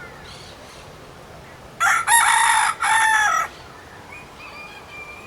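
Rooster crowing once, a loud cock-a-doodle-doo starting about two seconds in and lasting about a second and a half.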